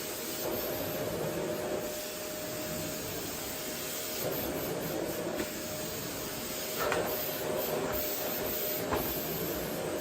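Vacuum cleaner running steadily: an even rushing hiss of air with a steady whine underneath, and a couple of small knocks from the nozzle about seven and nine seconds in.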